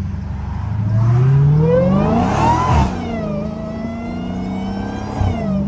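Straight-piped Dodge Challenger Hellcat's supercharged 6.2-litre Hemi V8 accelerating hard, its pitch climbing for about two seconds, then dropping and running steadily.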